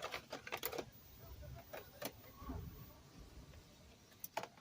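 Light clicks and knocks of small circuit-board pieces being handled and dropped into a container: a few sharp clicks near the start, one about two seconds in and a couple near the end, with a low rumble of handling in between.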